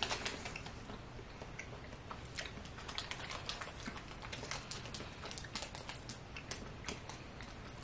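Faint, irregular small clicks and smacks of chewing a chewy chocolate-coated jelly bar.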